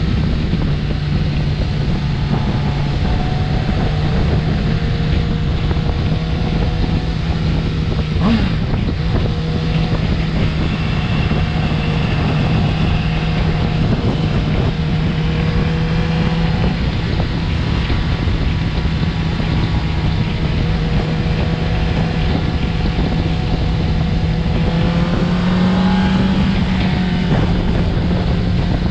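Suzuki GSX-S750's inline-four engine running at a steady cruise, with wind rushing over the microphone. The engine note rises a little near the end as the bike picks up speed.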